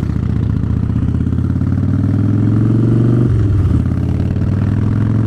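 Harley-Davidson V-twin motorcycle engine pulling under way, its pitch climbing slightly for about three seconds, then a brief break as at a gear change, and running steady again.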